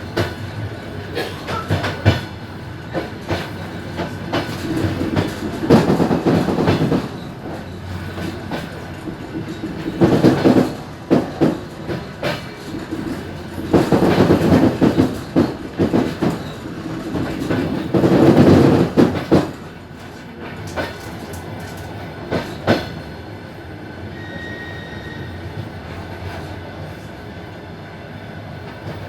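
Suburban train wheels clattering over rail joints, heard from aboard, in loud clusters of clicks about every four seconds over a steady rolling rumble. After about twenty seconds the clatter stops and the running noise drops to a quieter steady rumble.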